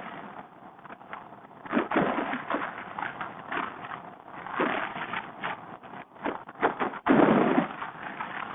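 Wind buffeting the microphone on a moving motorcycle, coming in uneven gusts with a few sharp knocks, the strongest gust about seven seconds in.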